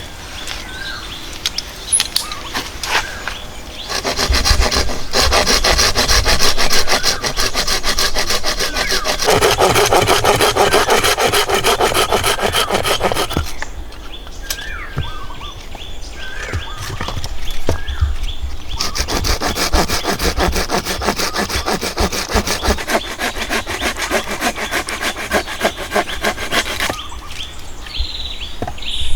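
Hand saw cutting through wood in quick, steady strokes, in two long bouts with a pause of a few seconds between them. Birds chirp in the pause.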